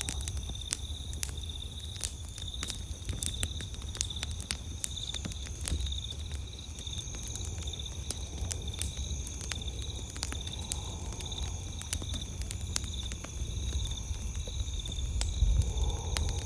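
Campfire crackling with frequent sharp pops and snaps over a low rumble, while night insects chirp steadily in a high, pulsing drone.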